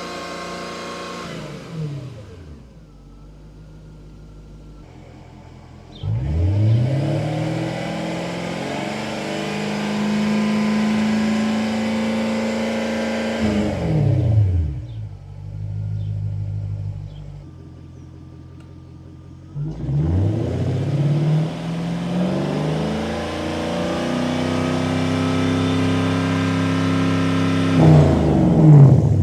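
Jaguar XK8's V8 engine revved through its exhaust: it drops back to idle near the start, rises about six seconds in and is held at high revs for about seven seconds, returns to idle, then is revved and held again for about eight seconds before falling away at the end.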